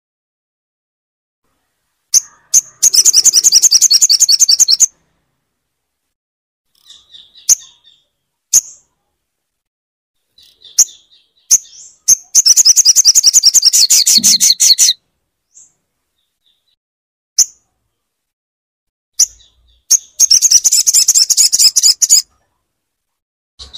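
Sogon bird song: three fast, high rattling trills, each about two to three seconds long, with single sharp notes and short calls between them.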